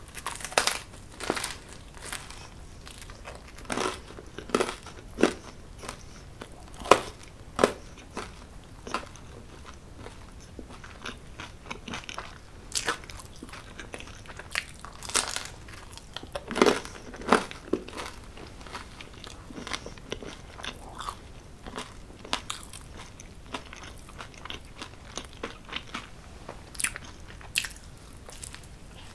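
Close-up eating sounds of a person biting and chewing cheese pizza, with irregular crunchy clicks and crackles from the mouth.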